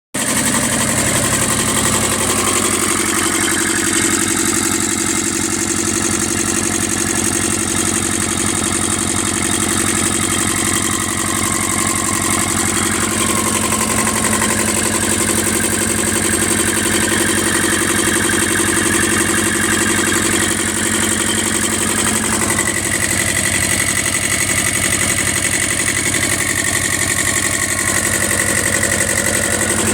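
An engine idling steadily on a test run, its tone shifting slightly about 22 seconds in.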